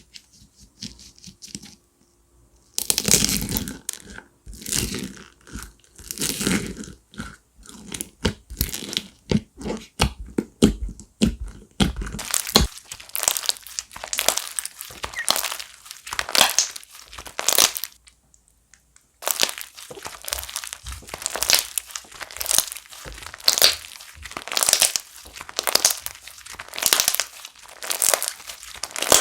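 Slime being squeezed and kneaded by hand: a fast series of crackly, crunchy squishes, pausing briefly twice.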